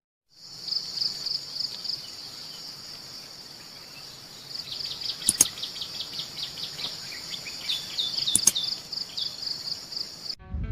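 Insects trilling steadily in a high, pulsing buzz, with a run of short bird chirps over the middle and two sharp cracks about three seconds apart.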